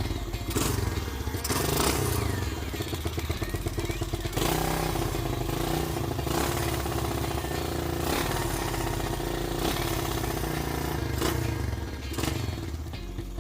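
Suzuki Raider 150 motorcycle engine running to warm up, a steady rhythmic low pulsing, with a few sharp clicks or knocks.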